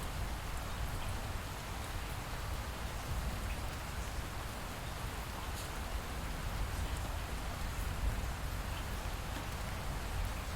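Light rain falling steadily, with faint scattered drop ticks over a low, even rumble.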